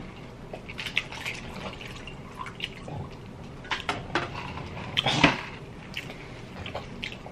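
Wet chewing and lip-smacking from someone eating rotisserie chicken: scattered short, wet clicks. There is one louder thump about five seconds in.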